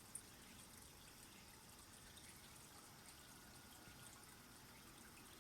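Near silence: faint outdoor ambience, a steady soft hiss with one small click about a quarter of a second in.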